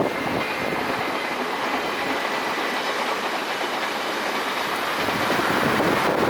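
A train running past on the rails, its wheels rolling over the track, mixed with wind on the microphone.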